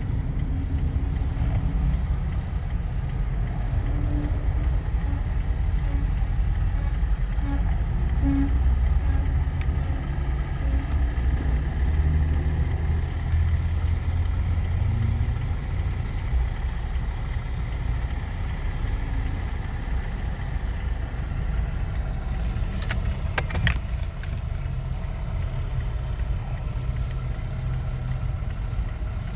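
Motor vehicle running with a steady low rumble, with a short rattle of clicks about three-quarters of the way through.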